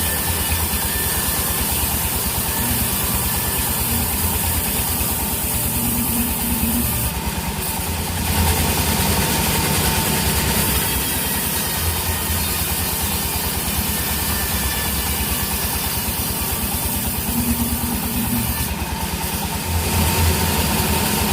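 An engine running steadily with a rapid, even pulse; its low end swells briefly now and then.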